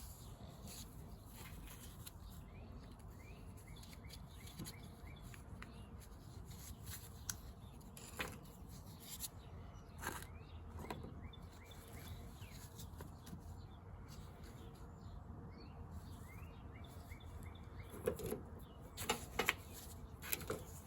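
Faint background: short birdlike chirps in repeated series over a low steady rumble, with a few sharp clicks and knocks, most of them near the end.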